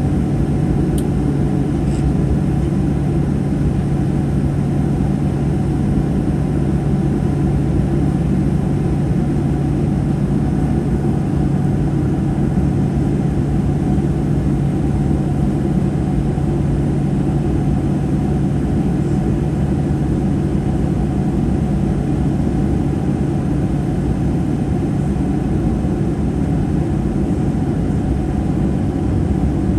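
Steady in-flight cabin noise of a Boeing 737-800: the drone of its CFM56-7B turbofans and the rush of air along the fuselage, with a steady low hum running through it.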